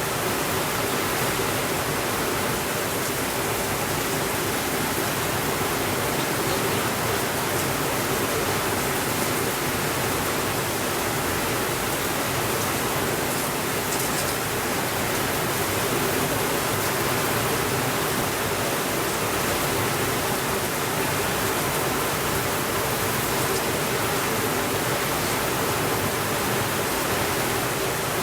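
Steady rainfall: a dense, even hiss that does not change.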